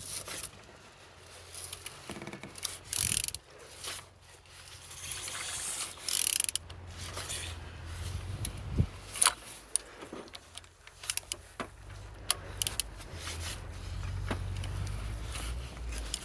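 Z13DTJ diesel engine being turned over by hand with a ratchet wrench on the crankshaft: irregular ratchet clicks and mechanical rubbing, with short bursts of noise as the pistons pass through compression. The engine turns freely and has compression on all cylinders.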